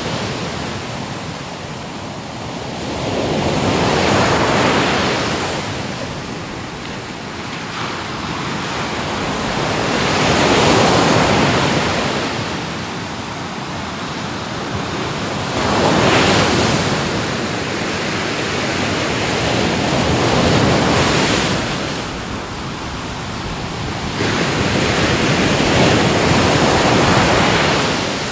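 Ocean waves breaking and washing onto a shore, swelling and falling back about every five or six seconds, with a roar of surf between the breakers.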